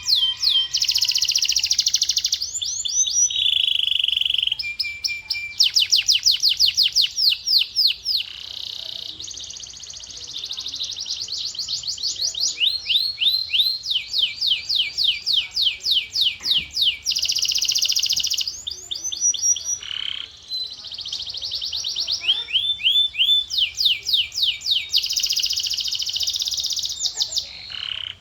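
Male canary singing a long run of rolled phrases: fast trills of repeated down-sweeping notes alternating with steady buzzing tours, each phrase a second or two long.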